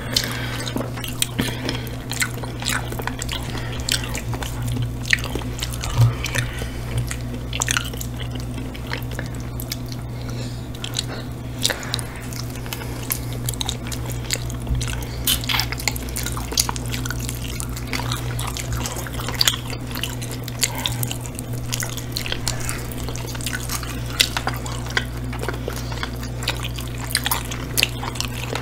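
Close-miked wet chewing and lip-smacking of two people eating saucy chicken wings, with frequent short, sharp wet clicks. A steady low hum runs underneath.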